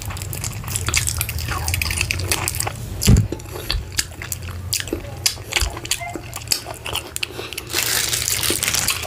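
Close-miked wet chewing and mouth clicks of someone eating garri fufu with vegetable soup, with finger-licking smacks. A low thump comes about three seconds in, and a longer hiss near the end.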